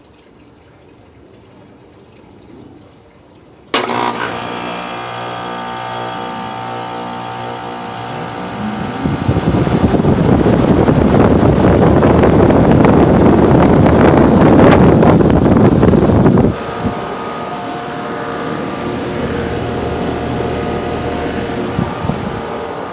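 A Rheem 4-ton heat pump's outdoor unit starting up: its compressor and motors come on suddenly a few seconds in with a steady multi-tone hum. A loud rushing noise then builds and cuts off suddenly about two-thirds of the way through, and the unit runs on humming steadily.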